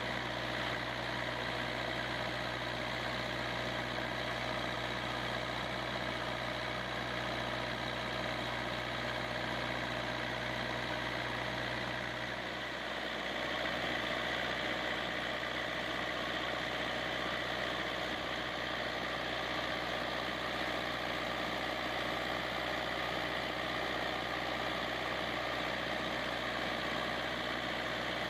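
Kubota V2203 four-cylinder diesel engine idling steadily. About twelve seconds in, its note shifts slightly and it runs a little louder.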